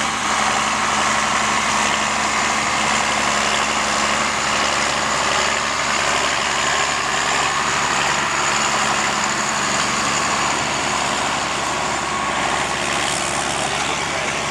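A vehicle engine running steadily at a constant pitch, with no change in speed.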